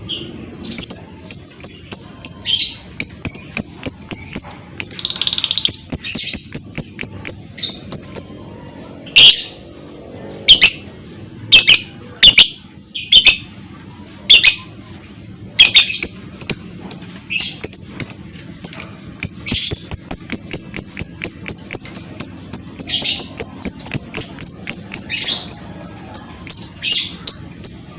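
Lovebird calling: rapid runs of short high chirps, several a second, broken by louder harsh shrieks, one after another in the middle stretch.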